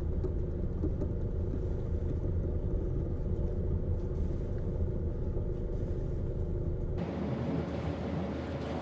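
A sailboat's inboard engine running steadily, a low rumble with a steady hum. About seven seconds in the sound changes abruptly: the deepest part of the rumble drops away and a rougher hiss comes up.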